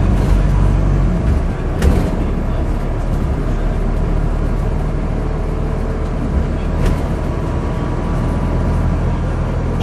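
Wright StreetDeck bus's Mercedes-Benz OM934 four-cylinder diesel engine running steadily, with a sharp knock or rattle about two seconds in and again about seven seconds in.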